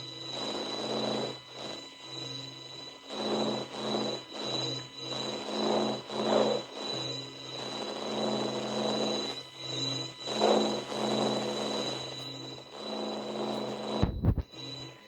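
Space-sound sonification of the kind presented as a planet's or moon's 'sound': a low, pulsing electronic drone that swells and fades roughly once a second under a steady high whine, with noisy surges. A few low thumps come near the end.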